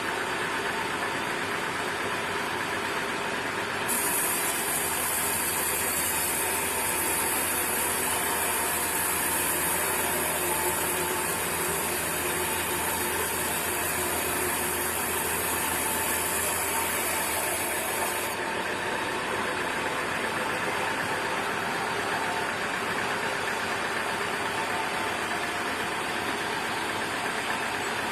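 Sawmill machinery running steadily. About four seconds in, a second machine with a high hiss and a low hum joins for some fifteen seconds, then stops.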